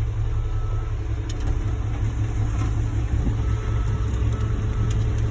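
Concrete mixer truck's diesel engine idling: a steady low drone, with a few faint ticks over it.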